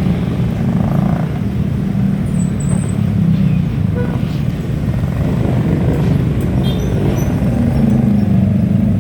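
Steady low rumble of wind and road noise from riding a bike, with a few faint high chirps or squeaks.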